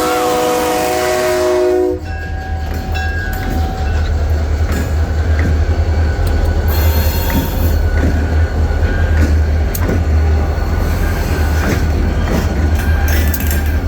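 A DeQueen & Eastern freight train led by an EMD GP40-2 diesel locomotive sounds a multi-chime air horn, which cuts off about two seconds in. The train then rolls past, with a steady low diesel rumble, rail clicks and faint wheel squeal.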